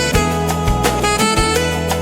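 Instrumental smooth jazz: saxophone and guitar over a bass line and a steady drum beat.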